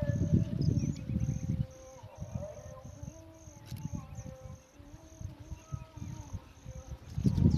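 Birds calling, with wavering lower-pitched calls, over an evenly repeating high-pitched chirp about twice a second. A low rumbling noise covers the first second and a half and returns near the end.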